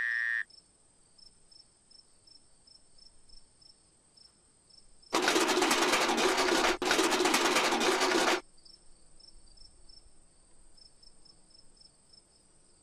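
Cartoon sound effect of the box rattling and shaking: a loud rattling noise starts about five seconds in and lasts about three seconds, with a brief break near its middle. A faint background of crickets chirping runs under it, and a high held frog call ends just after the start.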